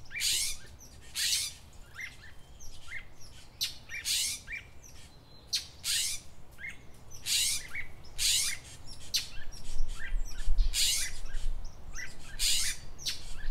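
A bird chirping over and over: short, sharp, high calls about once a second, with smaller falling chirps in between.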